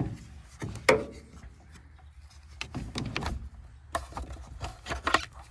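A handful of sharp knocks and clunks, with scraping and rubbing between them: a portable jump box and its gear being handled at the truck to jump its dead battery.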